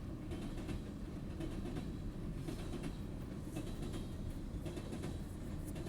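BNSF freight train of hopper cars rolling past, a steady low rumble with a few faint wheel clicks.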